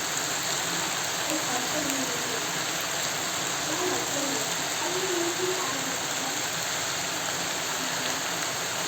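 Chicken and potatoes with spices frying in a pan, a steady sizzle. Faint background voices in the middle of it.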